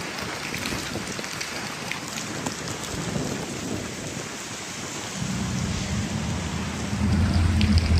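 Steady rain hiss. About five seconds in, a low steady rumble joins it and grows louder near the end.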